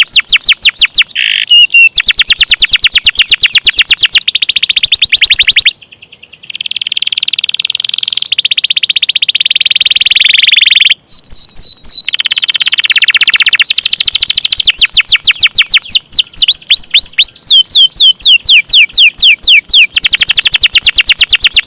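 Domestic canary singing a long rolling song: fast trills of rapidly repeated sweeping notes, with a long held buzzy roll in the middle after a brief break about six seconds in.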